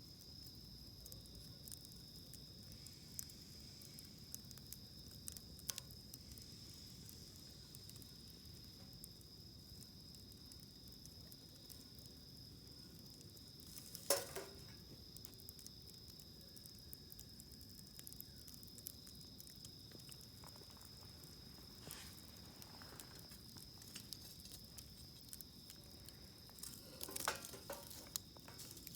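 Campfire wood crackling faintly, with scattered small pops, one louder crack about halfway and a flurry of crackles near the end. Crickets trill steadily in a high, continuous tone behind it.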